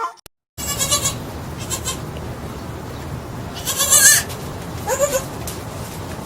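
Goat bleating a few times with a quavering call, the loudest about four seconds in, over a steady background hiss.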